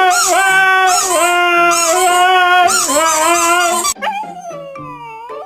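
A pet dog howling in long, held notes with brief dips in pitch, loud, cutting off abruptly about four seconds in. Fainter sliding tones follow.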